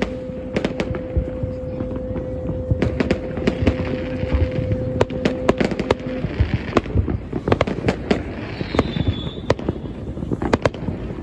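Many New Year's Eve fireworks going off across a wide area, a dense, irregular run of bangs and crackles. A steady low hum runs under the first half, and a short whistle falling in pitch comes a little past the middle.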